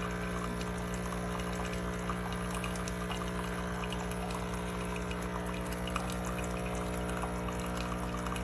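Cuisinart Barista Bar coffee maker's pump motor running while it brews: a constant, loud, steady hum with a rapid pulsing rattle, like jackhammering through the counter, with coffee pouring. The owner takes this loudness in a new machine as a sign that something ain't right with the motor.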